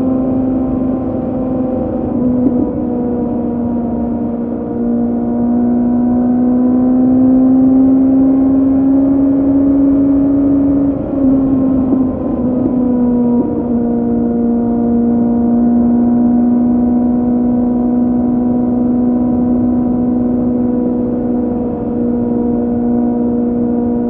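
2006 Kawasaki Z750's 748 cc inline-four running through a Scorpion carbon exhaust with the dB killer removed, at steady moderate revs. Its note climbs slowly for a few seconds, then dips briefly about 11 and 13 seconds in before settling steady again.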